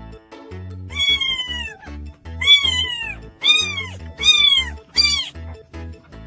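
A cat meowing five times in quick succession, each meow high and falling in pitch at its end, over background music with a steady beat.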